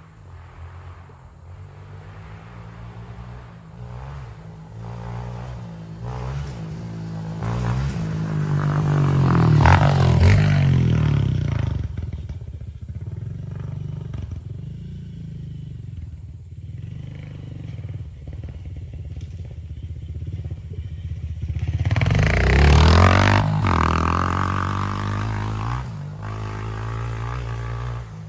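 Honda CRF125F dirt bike's single-cylinder four-stroke engine running under way. Its revs climb and fall twice, loudest about a third of the way in and again about three quarters through.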